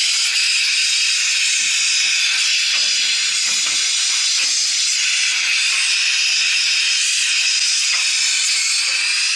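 Gas torch burning with a loud, steady hiss, heating a cooling tower fan hub to free it from its gear reducer shaft.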